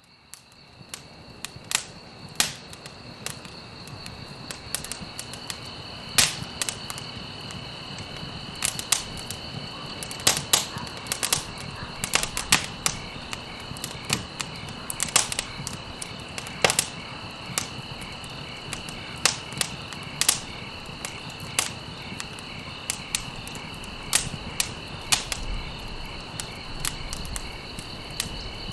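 Wood fire crackling, with sharp irregular pops and snaps over a soft bed of burning noise, fading in at the start. A steady high-pitched insect trill runs continuously behind it.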